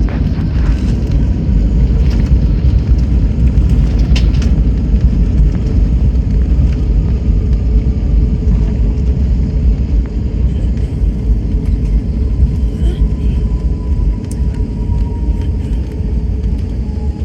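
Airbus A321neo heard from inside the rear cabin just after landing: a loud, steady low rumble of the wheels rolling on the runway and the engines as the aircraft slows, with a faint tone sliding slightly lower in the second half.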